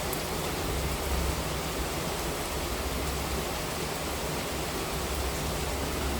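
Heavy monsoon rain falling steadily: a dense, even hiss of rain with a low rumble underneath.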